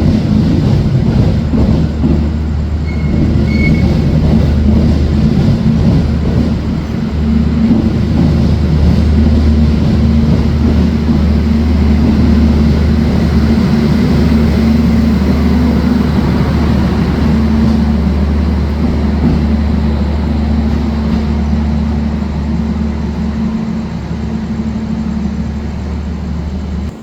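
Passenger train running, heard from inside a new-generation INKA carriage: a steady low rumble and hum.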